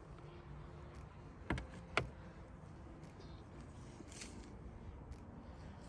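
Quiet steady background noise with two sharp clicks, about a second and a half and two seconds in, the second louder.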